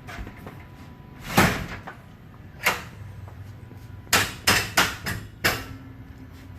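Several short, sharp knocks and clacks over a low background: two spaced apart, then four in quick succession in the second half.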